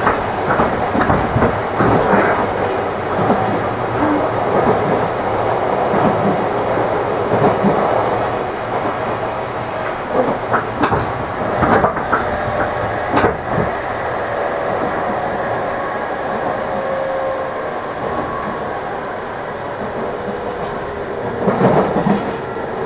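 Running sound of a JR 813 series electric multiple unit recorded inside the KuMoHa 813-4 motor car, which has a Toshiba GTO inverter drive: steady wheel-on-rail rumble at speed. A few sharp clicks from rail joints come through around the middle.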